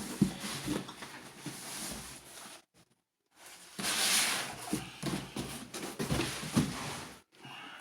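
Rustling packaging and light knocks as the mugs and their boxes are handled, with two louder stretches of rustle; the sound cuts out completely for about half a second partway through.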